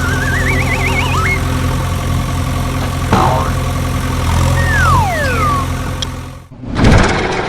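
Vehicle engine idling steadily, with whistle-like glides over it: a warbling rising whistle in the first second and two falling whistles about two-thirds of the way in. The sound drops out briefly near the end, then the engine sound resumes.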